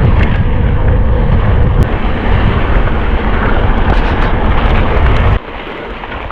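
Wind buffeting the microphone of a camera on a mountain bike riding at speed, with scattered light rattles. About five seconds in it drops suddenly to a much quieter hiss.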